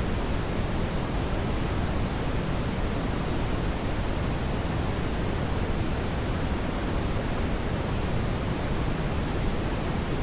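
Brown noise: a steady, even rushing hiss weighted toward the low end, unchanging throughout.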